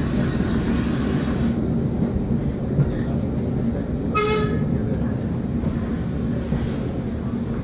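Railway carriage running along the track, a steady rumble heard from inside the coach. About four seconds in, the locomotive gives one short toot.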